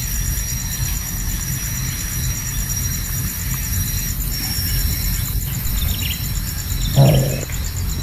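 Steady, rapid insect chirring over a low outdoor rumble, broken about seven seconds in by one short, low, harsh animal call.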